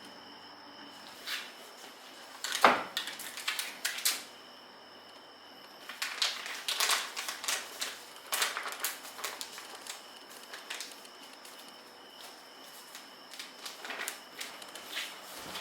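Kitchen handling sounds: three bursts of light clicks and knocks from utensils and cookware, the loudest a single knock about two and a half seconds in.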